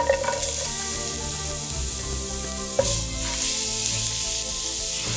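Minced garlic sizzling steadily in hot oil in a frying pan, stirred with a spatula.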